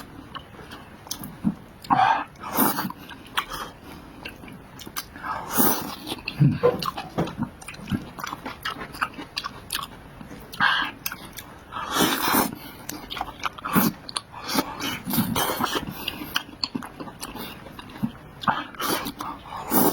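A person eating close to the microphone: chewing and biting food, in irregular loud bursts.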